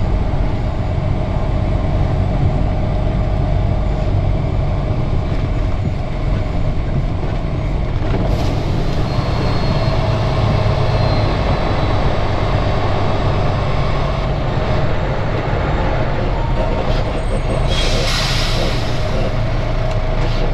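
Semi truck's diesel engine running steadily at low speed, heard from inside the cab. A short burst of air-brake hiss comes near the end.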